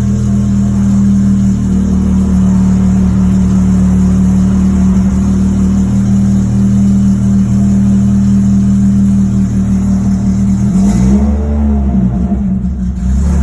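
Renault Clio RS four-cylinder engine idling steadily after a cold start, with one brief rise and fall in engine speed about eleven seconds in before it settles back to idle.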